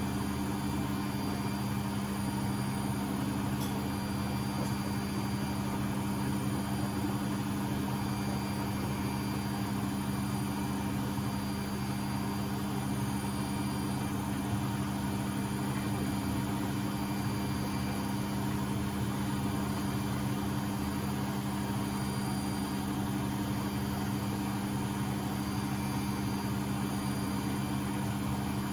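Beko WMB71642W washing machine in its final spin at 1000 rpm: the motor and drum run with a steady hum and a constant low whine, holding speed without change.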